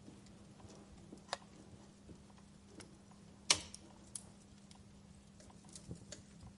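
Wood fire in a fireplace crackling: scattered snaps and pops over a low background, with the loudest pop about halfway through.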